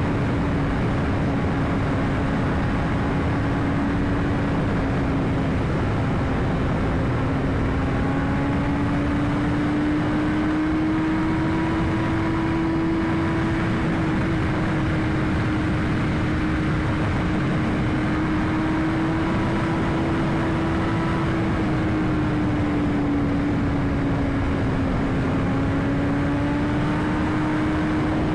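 2021 BMW S1000RR inline-four engine running at a steady cruise on the road, its note drifting slightly up and down under heavy wind rush, with no sharp revs or gear changes.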